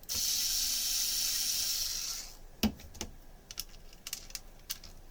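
A steady hiss lasting about two seconds that starts abruptly and fades out. Then a sharp knock and a scatter of light clicks from parts being handled.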